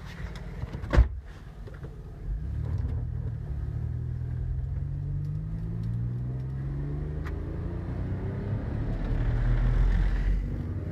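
A sharp thump about a second in, then a car engine pulling away and accelerating, its pitch rising as it gathers speed.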